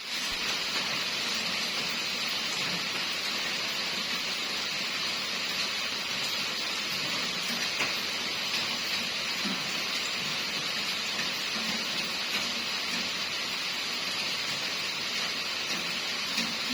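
Steady rain falling, a continuous even hiss, with a few faint low murmurs under it.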